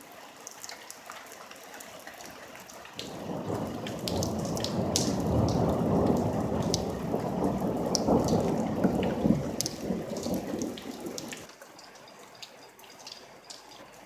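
Rain falling with scattered drips ticking close by. About three seconds in a long, loud thunder rumble swells up, then stops fairly sharply near the end.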